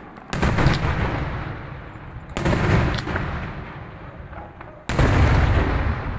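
Three loud firework bomb blasts in a daytime 'diana' display, about two seconds apart. Each is a sudden bang followed by a long rolling echo that fades away.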